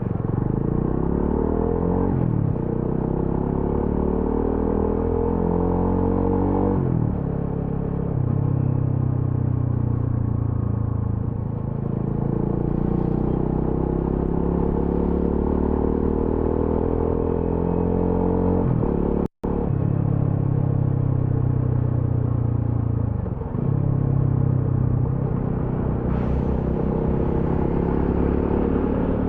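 TVS Apache RTR 200 4V's fuel-injected single-cylinder engine and exhaust under way, accelerating through the gears. The pitch climbs, then drops sharply at each of four gear changes, with a steadier cruise in between.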